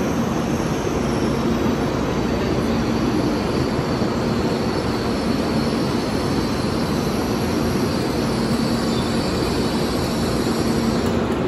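Steady rumble of a Shinkansen train on the station platform, with a low hum running through it.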